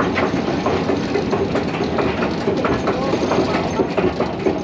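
Subway train running in the station, wheels clattering on the rails, with voices in the background.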